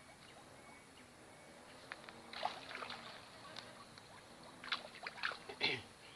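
Water sloshing and splashing in two short clusters, about two seconds in and again about five seconds in, over a faint steady background.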